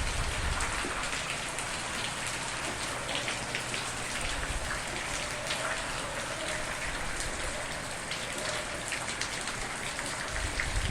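Steady rain falling, with the sharp ticks of individual drops striking a surface. A low rumble starts to swell near the end.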